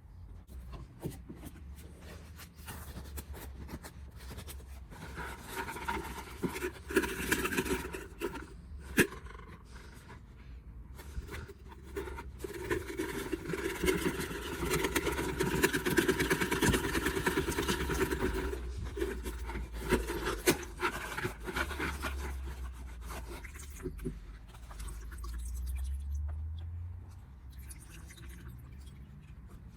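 Scraping and rubbing sounds in two longer spells, with a few sharp clicks, over a steady low hum.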